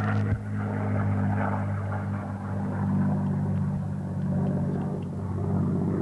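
A WWII-era propeller fighter's piston engine, droning steadily as the plane flies past. There is one brief knock about a third of a second in.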